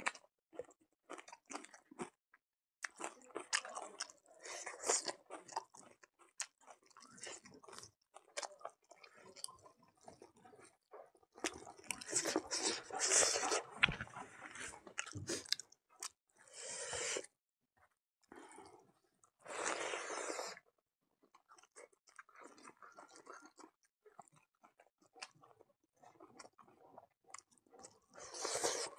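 Close-miked chewing of hand-fed mouthfuls of rice mixed with pig blood and pork fat: irregular wet mouth clicks and chewing noises with short pauses, and a few longer, louder stretches around the middle.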